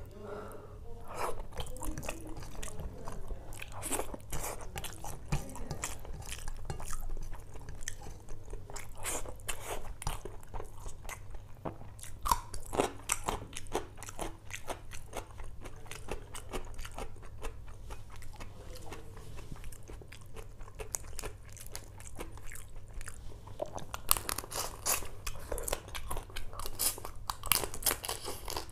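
Close-miked chewing and crunching of spicy rice and seafood eaten by hand, a steady run of short wet crunches and mouth clicks. The crunching grows denser and louder in the last few seconds as a fried prawn is bitten into.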